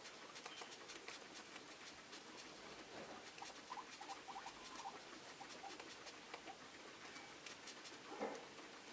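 Guinea pigs pattering and rustling about, faint, with a quick run of short squeaks about four seconds in and one louder short sound near the end.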